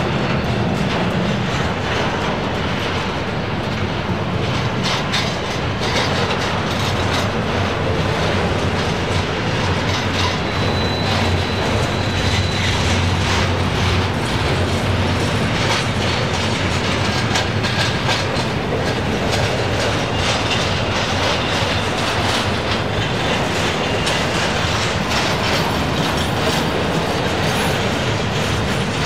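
Freight train cars rolling past, with a steady clatter of wheels over the rails. A faint high wheel squeal is heard briefly partway through.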